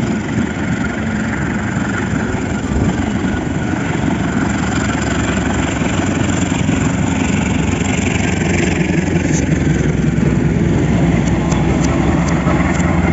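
Passenger train rolling past: a steady rumble of carriage wheels on the rails, with a diesel locomotive's low engine drone growing stronger in the second half. A few sharp clicks come near the end.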